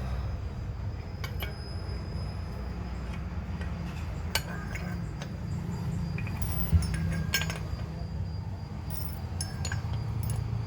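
Light metallic clinks and taps, spaced irregularly a second or two apart, with a sharper one near the middle, over a steady low rumble.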